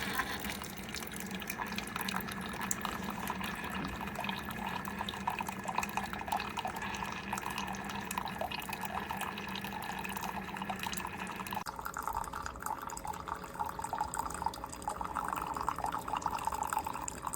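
Single-serve coffee maker brewing: hot liquid streams and drips into a cup over a low pump hum. The hum cuts off about two-thirds of the way through, and the liquid sound carries on.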